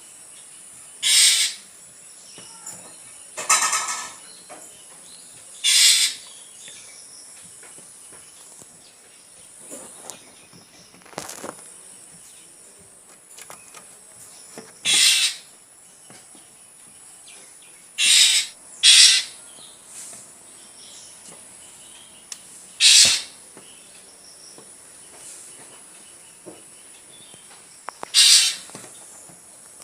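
A drongo giving short calls, eight in all, each about half a second long and spaced irregularly, over a steady high hiss.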